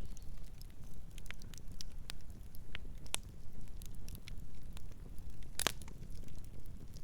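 Campfire crackling, with irregular small snaps and one louder pop a little past two-thirds of the way through, over a steady low rumble of the burning fire.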